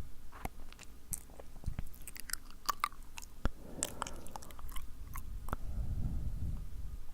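Close-up ASMR mouth sounds: wet, sticky lip smacks and tongue clicks, scattered and irregular, with a soft breath blowing on the microphone near the end.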